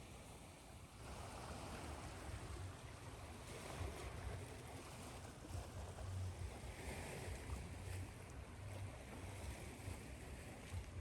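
Ocean waves washing in and receding over a steady hiss, with a low rumble underneath and slow swells in level every few seconds.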